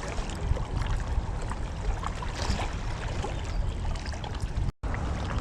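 Steady rush of water noise with a heavy low rumble, likely light wind on the microphone, broken by a brief total dropout about three-quarters of the way through.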